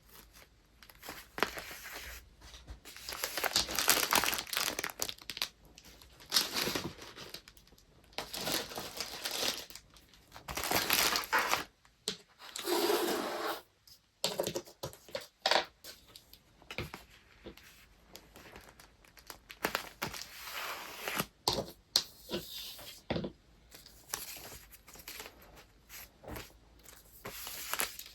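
Paper wrapping being handled: a run of rustling, crinkling and tearing sounds in separate bursts, each a second or two long, with short pauses between.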